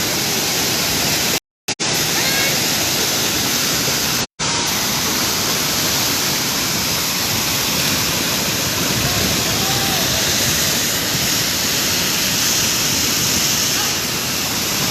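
Waterfall pouring, a loud, steady rush of falling water. The sound drops out to silence for a moment about a second and a half in, and again at about four seconds.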